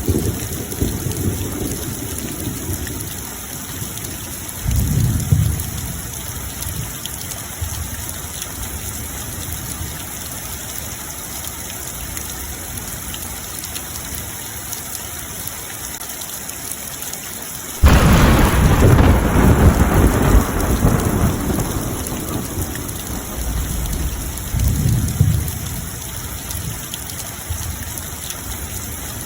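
Steady rain with thunder: a low rumble about five seconds in, a sudden loud thunderclap about eighteen seconds in that rolls on for several seconds, and another low rumble near the end.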